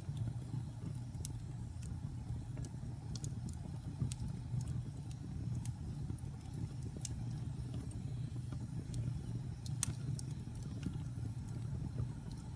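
Wood fire burning in a fireplace: a steady low rumble of flames with scattered sharp crackles and pops, one louder pop about ten seconds in.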